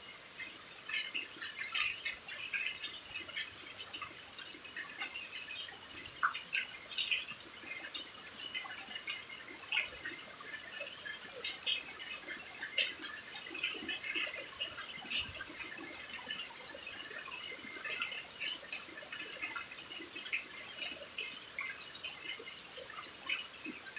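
Rain dripping: many irregular drops tick and patter over a faint steady hiss.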